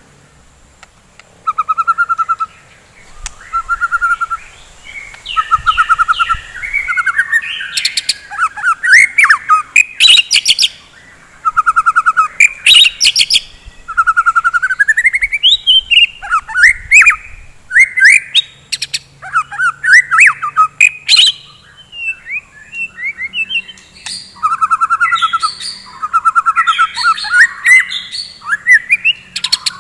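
White-rumped shama (murai batu) singing a loud, varied song in bursts with brief pauses: short fast trills, rising and falling whistles, and sharp clicking notes.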